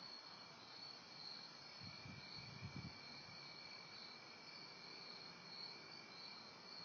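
Faint, steady chorus of night insects such as crickets: a high, gently pulsing trill over a lower steady tone. Soft low rumbles come in briefly about two seconds in.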